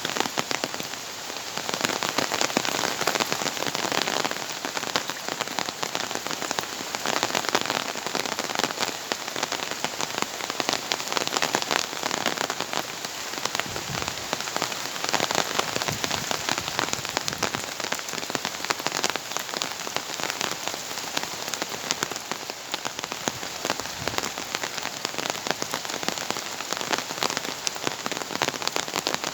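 Heavy tropical rain pouring down, a dense steady hiss of countless drops striking surfaces, swelling and easing every few seconds.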